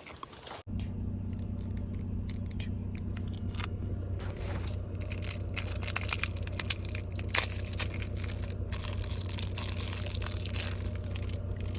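Car driving over a gravel road: tyres crunching and crackling over loose stones above a steady low road and engine drone. It starts abruptly just under a second in.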